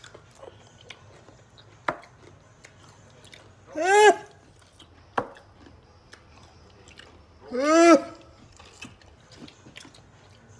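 Pickles being bitten and chewed close to the microphone, with faint wet clicks and a couple of sharp crunches. Twice a short, loud, high-pitched wordless vocal sound rises and falls in pitch, the loudest thing heard.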